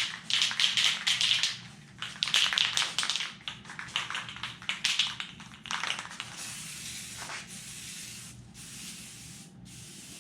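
Aerosol can of clear coat spraying in two uneven, sputtering bursts of about two and three and a half seconds, then a fainter steady hiss. The spray is weak and uneven; it only comes out while the can is shaken continuously.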